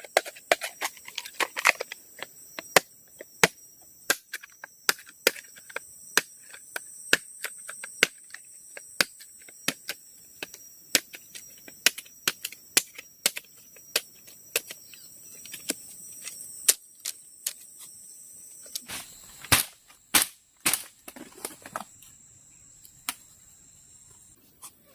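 Repeated sharp knocks, irregular and about two a second, with a louder cluster of heavier strikes around 19 to 21 seconds in. A steady high-pitched drone runs underneath until near the end.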